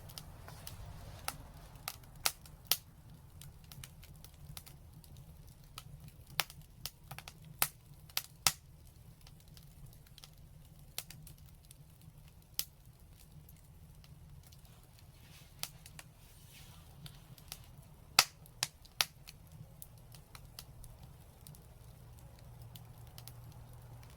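Wood fire in a fireplace crackling, with irregular sharp pops, several coming in quick clusters, over a steady low rumble.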